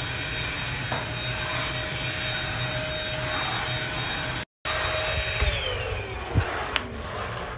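An electric motor running with a steady whine and rushing noise. It cuts out briefly partway through, then its pitch falls as the motor winds down.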